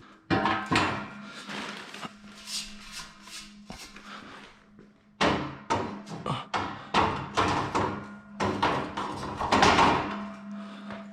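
Metal scaffolding frames and parts clanking and knocking together as they are handled and fitted, some strikes ringing on. There is one sharp knock just after the start, then a run of clanks from about five to ten seconds in.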